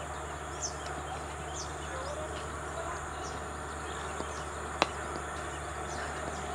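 Open-air ambience with small birds chirping over and over above a steady low hum, and one sharp crack about five seconds in.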